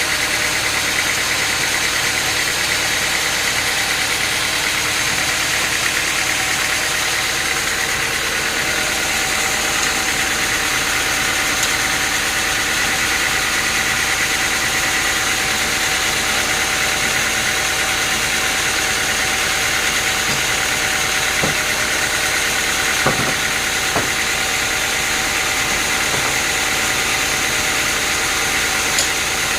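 Sawmill machinery running steadily: an even mechanical hum with constant high tones, broken by a few faint knocks in the second half.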